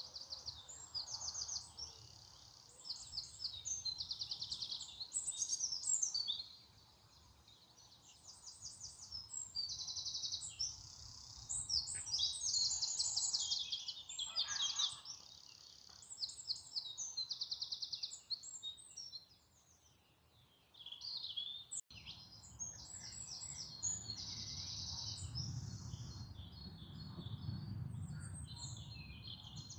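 Several songbirds singing, with fast trilled phrases repeated one after another. A low rumble comes in during the second half.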